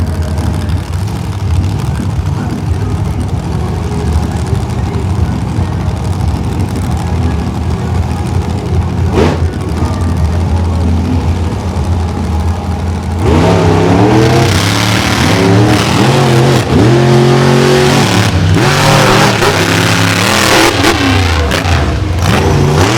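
Monster truck engines running at low revs, then about 13 seconds in revving hard and racing, the pitch rising and falling again and again as the throttle is worked.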